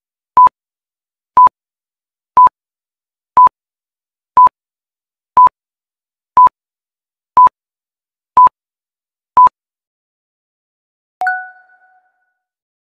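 Quiz countdown timer beeping: ten short, identical beeps at one pitch, evenly spaced one per second. About a second after the last beep, a single chime rings and fades, marking time up as the answer is revealed.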